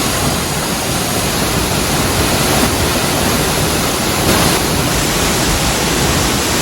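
Steady rushing of a waterfall: an even roar of falling water with no breaks.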